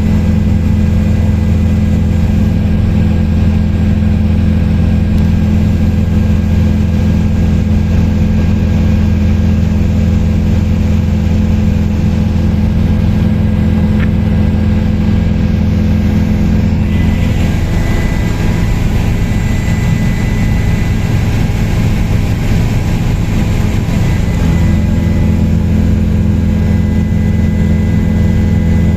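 Helicopter in flight: a loud, steady, deep drone of rotor and engine with a constant hum. About seventeen seconds in, the pitch wavers for several seconds and a high whine stands out, then the drone settles back to steady.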